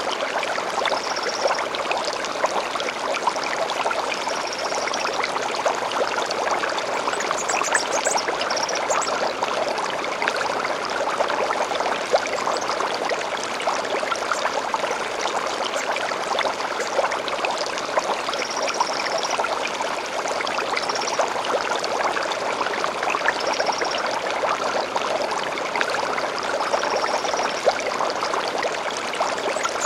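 Stream of water babbling steadily, with short high bird calls every few seconds and a quick run of chirps about eight seconds in.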